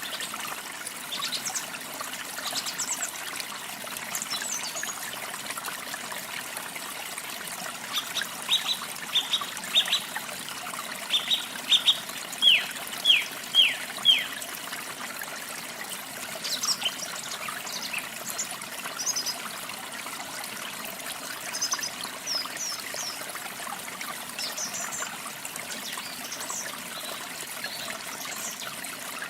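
Steady trickling stream water with small songbirds calling over it: a run of about a dozen short, quick falling whistles in the first half, then scattered higher chirps.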